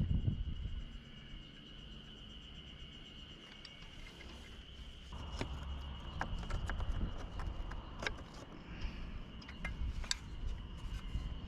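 Outdoor ambience with a steady high insect chirring throughout, scattered sharp clicks and taps, and a low rumble that comes in about halfway through.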